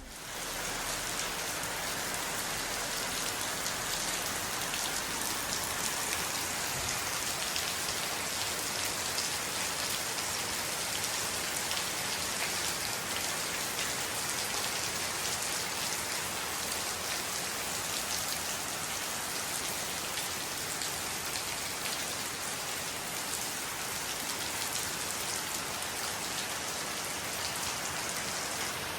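Steady rain falling, a dense hiss of many small drop impacts that holds even throughout.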